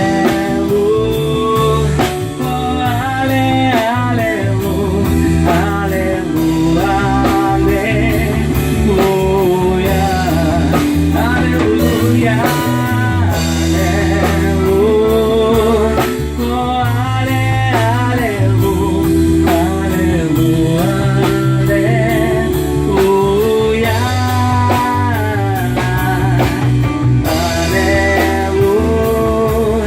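A worship band playing an instrumental passage of a rock-style song: a sliding, bending lead melody line over bass, guitar and drum kit.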